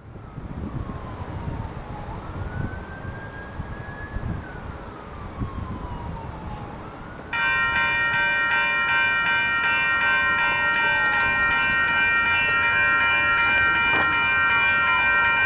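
A slow wailing outdoor warning siren rises and falls over several seconds. About seven seconds in, railroad grade-crossing signal bells suddenly start ringing rapidly and loudly as the crossing activates, with the siren still wailing behind them. A single sharp click comes near the end.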